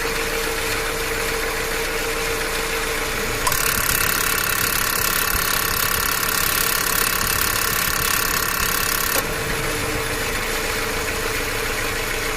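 2018 Subaru Forester engine running steadily. About three and a half seconds in, a louder whine and hiss abruptly joins it, then drops out again near nine seconds.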